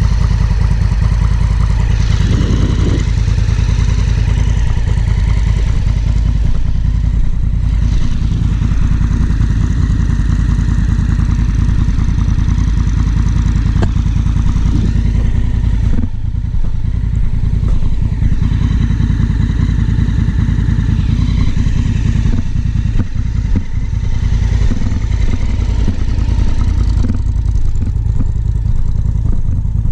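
Honda Africa Twin CRF1000L's 998 cc parallel-twin engine running while the bike is ridden, under heavy wind buffeting on a helmet-mounted camera, the engine pitch rising and falling now and then.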